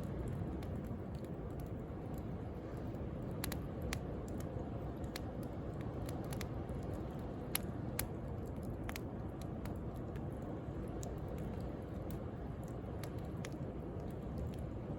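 Wood bonfire crackling, with scattered sharp pops over the steady wash of sea waves; two louder pops come about halfway through.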